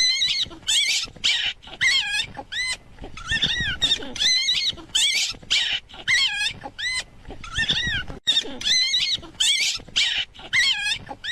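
An animal giving a rapid series of short, high-pitched squealing calls, each rising and falling in pitch, about two a second.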